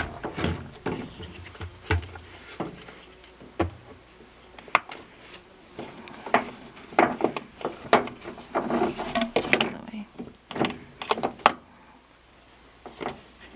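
Scattered clicks, knocks and rubbing of parts being handled and pushed into place as a washing machine's drain pump and hose are fitted back in.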